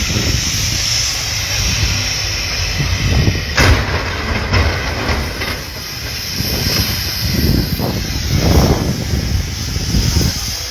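Steady hiss over an uneven low rumble of traffic on a snowy highway, with one sharp knock about three and a half seconds in.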